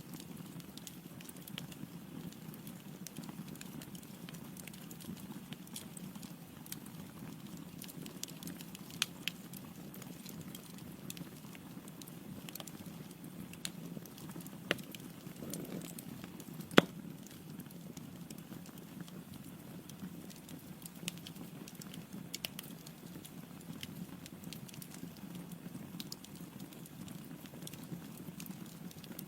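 Wood logs burning in a fireplace: a steady low rush of flame with scattered crackles and pops, one sharp loud pop a little past halfway.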